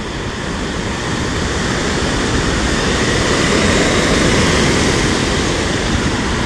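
Storm surf on the sea mixed with wind buffeting the microphone: a loud, steady noise heavy in the low end that swells up through the middle and eases slightly near the end.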